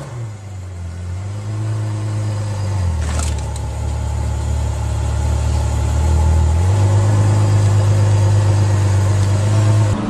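A car engine running steadily with a deep hum that shifts pitch twice, with a single sharp knock about three seconds in.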